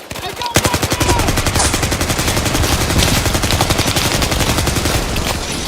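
Rapid automatic gunfire in a battle ambience, shot after shot without a break, starting about half a second in after a brief lull.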